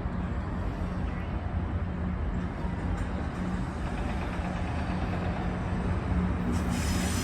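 MARC MP36 diesel locomotive running with a steady low drone; a higher hiss joins about six and a half seconds in.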